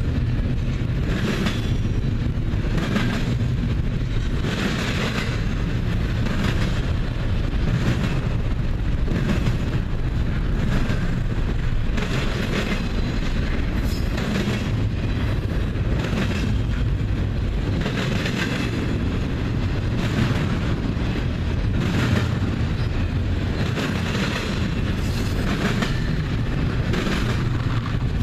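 BNSF double-stack container freight train rolling past: a steady low rumble of wheels on rail, with clacks roughly once a second as the wheels cross rail joints.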